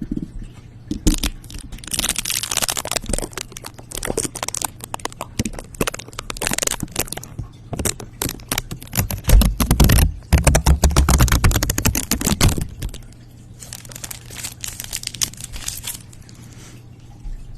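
Close-miked crinkling and crackling handling noises, full of rapid clicks, with a louder, denser stretch from about nine to twelve seconds in.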